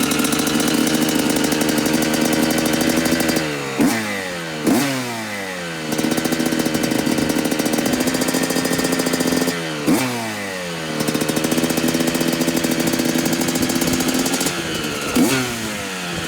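Yamaha YZ125 125cc single-cylinder two-stroke engine running. It holds a steady speed, then is blipped sharply and the revs fall away: twice around four to five seconds in, once at ten seconds, and twice near the end.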